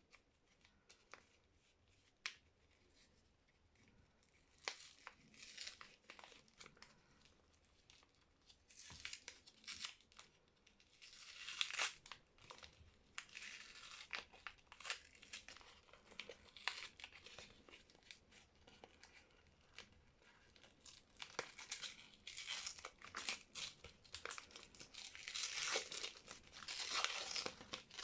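Soap wrapper being torn open and crumpled by hand. A few light crinkles come first, then longer stretches of tearing and crinkling, busiest around the middle and toward the end.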